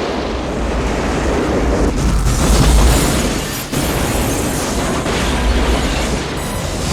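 Film sound effects of a volcanic eruption: a loud continuous rumbling and blasting with a heavy low rumble, loudest about three seconds in.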